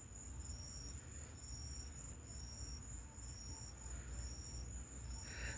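Faint cricket chirping: short high chirps repeating about once a second.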